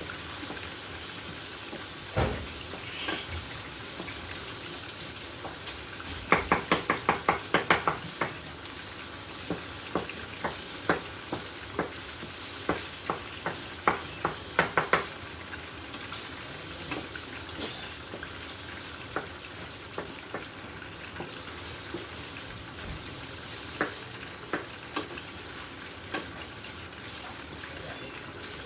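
Ground beef sizzling in a hot pan while a utensil breaks it up, knocking against the pan in quick runs of clicks, about six a second, with scattered single taps between.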